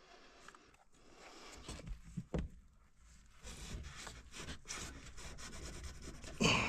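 Irregular rubbing and scraping with scattered small knocks, as things are handled and moved about. A louder brief scrape or bump comes just before the end.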